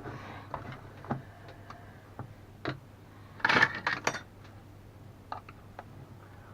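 Plastic power bank casing being handled and prodded while looking for its snap latches: scattered small clicks and taps, with a louder scraping rattle of plastic about three and a half seconds in.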